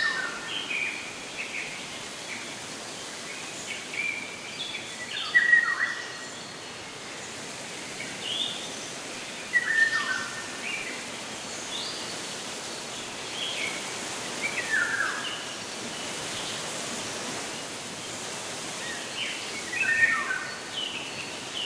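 Birdsong over a steady outdoor hiss: a bird repeats a short phrase of chirps with a few notes sliding down in pitch, about every five seconds.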